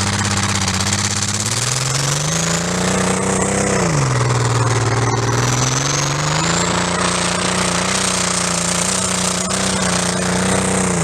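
Turbocharged 1998 Ford EL Falcon engine pulling under load on the road: the revs climb, dip sharply about four seconds in, then climb again and hold steady. A high whistle rises and falls with the revs.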